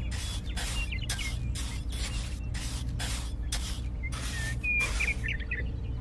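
Small metal trowel scraping and smoothing wet cement in quick repeated strokes, about two to three a second. A few faint bird chirps sound between the strokes.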